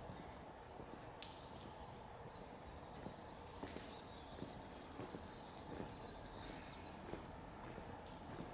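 Footsteps of a person walking at an even pace, about two steps a second, with small birds chirping in the background.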